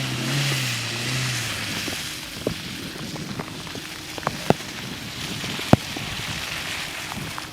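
Hyundai Tucson driving through mud: a steady hiss of tyres and spray, with a few sharp knocks, likely mud or stones hitting the body. A short stretch of music fades out in the first second and a half.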